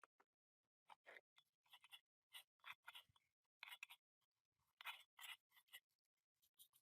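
Faint, irregular short scratching strokes, about a dozen, with the loudest near the middle and about five seconds in.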